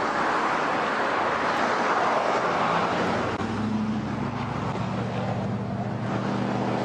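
Motor vehicle road noise: a loud rush of tyre and traffic noise swells and eases. A steady low engine hum joins it from about three seconds in, and both cut off abruptly at the end.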